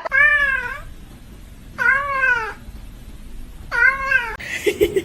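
A cat meowing three times, about two seconds apart; each meow rises and then falls in pitch.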